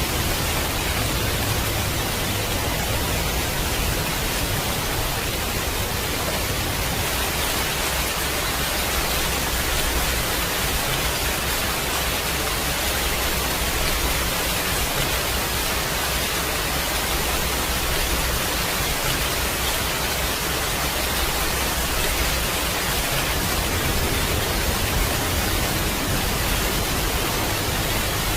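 Steady heavy rain: a dense, even hiss that holds at one level throughout.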